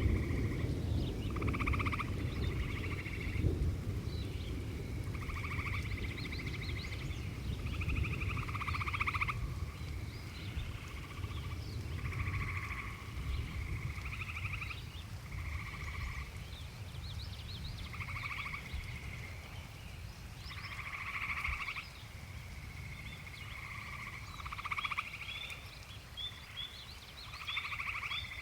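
A chorus of frogs calling in repeated pulsed trills, each about a second long, overlapping and answering one another. A low rumble of distant thunder fades away over the first ten seconds or so. Near the end a rapid series of short, higher chirps joins in.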